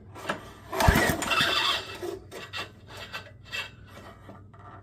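Recoil starter cord on a Craftsman rototiller's small engine pulled to crank it for a spark test: a rasping pull with a thump about a second in, then lighter rubbing strokes and ticks. The engine turns over without running.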